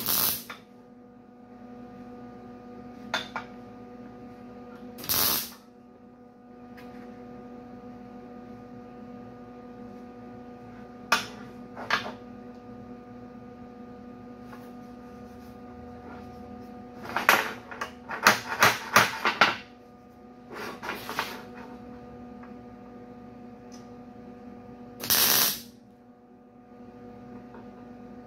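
Hand work on metal in a shop: a scattering of short knocks and scraping strokes, with a quick run of taps about two-thirds through, over a steady electrical hum.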